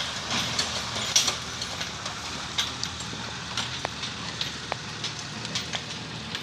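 A truck running, with a steady low rumble and scattered knocks and crackles throughout.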